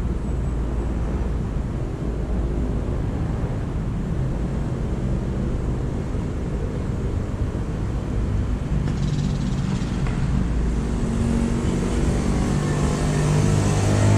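Steady low rumble of road traffic. A hiss swells over the last few seconds, and low held tones come in near the end.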